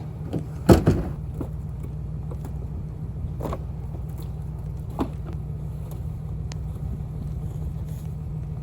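Vehicle engine idling steadily with a low rumble. Several knocks sound over it, the loudest about a second in and lighter ones a few seconds later.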